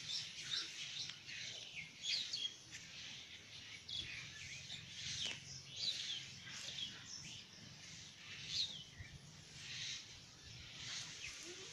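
Small birds chirping and twittering in the open, many short quick calls scattered throughout over a faint steady background.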